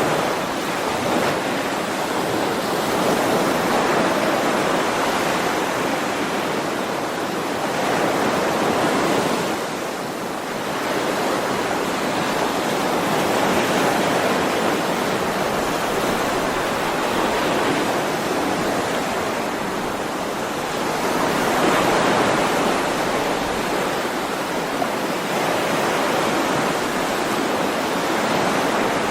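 Ocean waves washing onto a shore, a continuous rush of surf that swells and falls back every several seconds.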